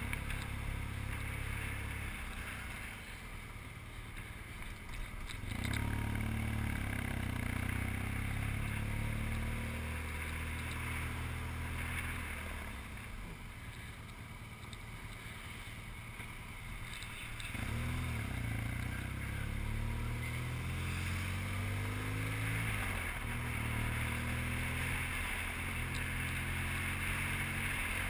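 BMW R1200GS boxer-twin engine running under way, with wind noise. It goes quieter twice, from about three seconds in and again from about twelve seconds in, and each time picks up again with a rising note, about five and a half seconds in and about eighteen seconds in.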